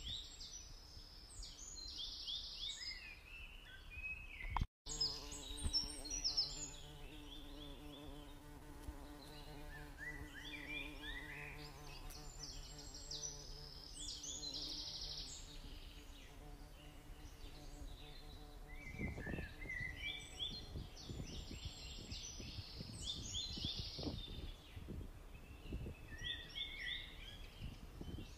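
A songbird singing in repeated bursts of quick, high notes. A low steady hum runs under the song through the middle, and a few low thuds come near the end.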